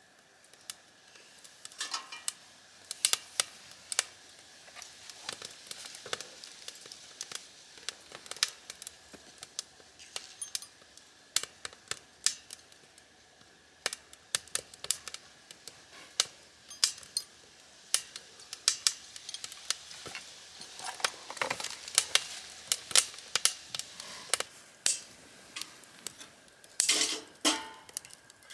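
Cooking utensils clicking and clinking against a pan and dishes in irregular light taps, thickening near the end, over a faint sizzle.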